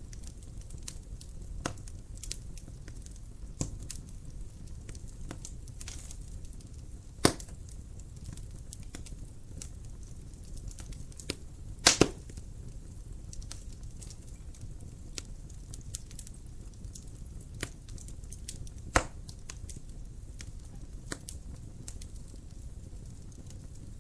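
Wood fire in a fireplace crackling, a low steady rumble of flames under scattered sharp snaps, with a few louder pops, the loudest a double pop about halfway through.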